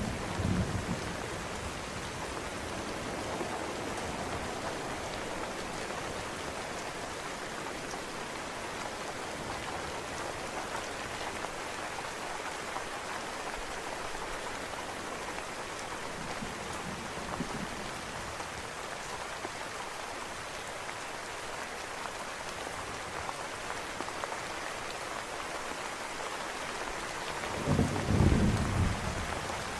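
Steady rain falling, with a rumble of thunder fading out in the first second and another low peal of thunder about 28 seconds in.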